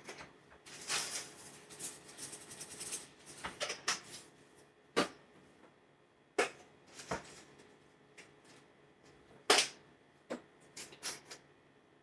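Seasoning containers being handled on a kitchen counter while seasoning flour for fried chicken: a rattling stretch of shaking and clicks about one to three seconds in, then single sharp knocks and lid clicks as containers are opened and set down. The loudest knock comes about nine and a half seconds in, followed by a quick run of clicks.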